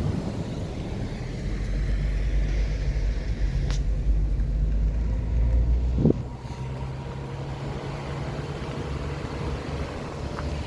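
Car driving along a road: steady engine and tyre rumble, heavier through the first half, with a short thump about six seconds in, after which the rumble drops to a lighter level.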